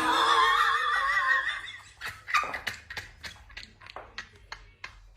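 An animal's wavering, drawn-out cry lasting about a second and a half, followed by a run of irregular sharp taps or clicks.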